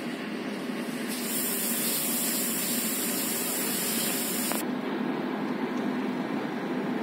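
Passenger train at a station: a steady low hum over a rumbling background. A high hiss starts about a second in and cuts off suddenly some three and a half seconds later.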